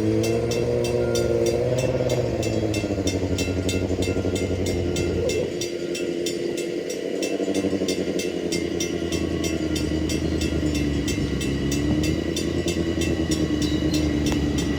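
A railroad grade-crossing bell ringing rapidly and evenly, over an engine or train motor running with a pitch that drifts slowly up and down.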